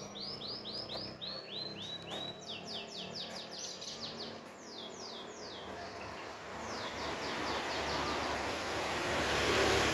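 A bird calling a rapid series of short down-slurred whistled notes, about four a second, the notes stepping lower and then fading after a few seconds. From about two-thirds of the way in, a vehicle approaches, its noise growing to the loudest point near the end.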